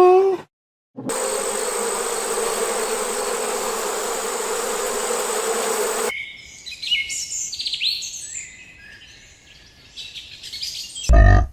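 A steady buzz, like an insect's, for about five seconds that stops abruptly, followed by small birds chirping with quick high notes. A brief loud low sound comes right at the end.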